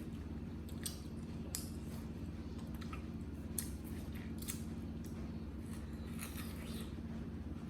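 Wet, crisp crunching and squishing of yellow watermelon flesh, in short irregular crackles and clicks over a steady low hum.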